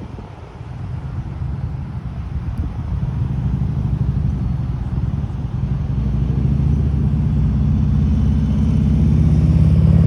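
A motor vehicle's engine running, low-pitched and even, growing louder over the first several seconds and then holding steady.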